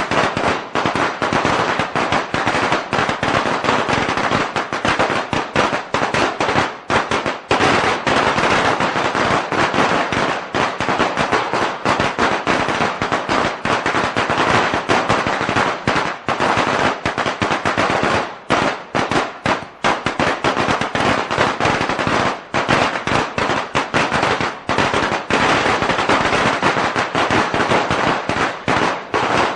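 A long string of Chinese firecrackers going off, the bangs coming in a rapid, continuous crackling rattle with only a few brief dips.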